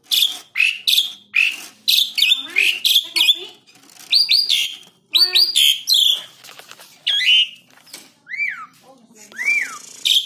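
Asian pied starling (jalak suren) singing a fast, varied song of whistles, down-slurred notes and harsh, rasping notes in quick phrases with short pauses between them.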